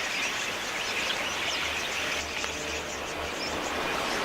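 Dense, continuous chirping and chattering of a large flock of budgerigars.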